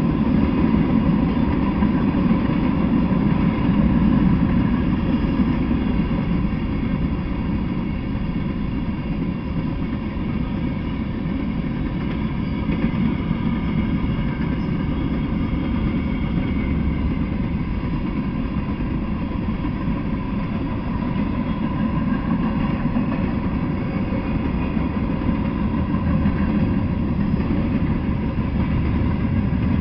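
A freight train's cars rolling past on the rails: a steady rumble of steel wheels on track.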